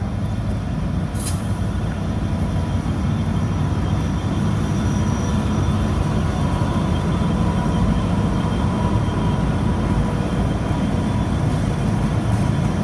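82 class diesel-electric locomotive passing slowly at the head of a grain train, its engine a steady, loud low rumble. A single short, sharp click about a second in.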